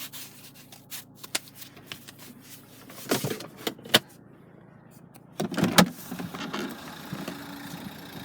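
Scattered clicks and a few louder thuds of things being handled inside the car, over the steady low hum of the Nissan Qashqai's 1.5 dCi diesel engine idling.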